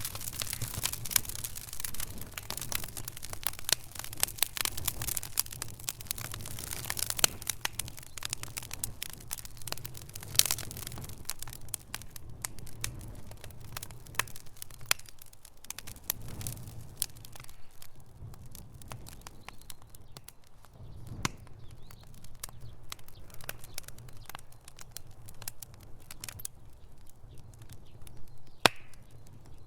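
Wood fire in a fireplace crackling, with a dense run of sharp pops for the first dozen seconds that then thin out to scattered snaps, and one loud pop near the end.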